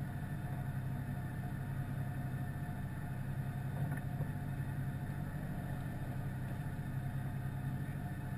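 Peugeot 106 rally car's engine idling steadily, heard from inside the cabin.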